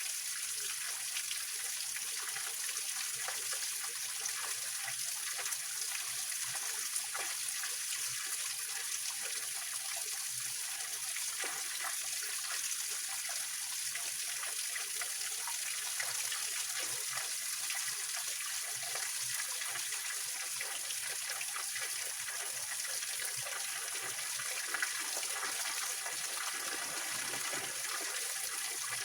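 Small waterfall and stream splashing and trickling over rocks, a steady water noise with many small irregular splashes.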